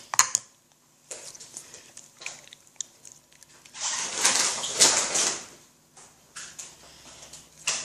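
Soft putty being handled and squeezed: sticky clicks and crackles, with a louder, longer squish about four seconds in.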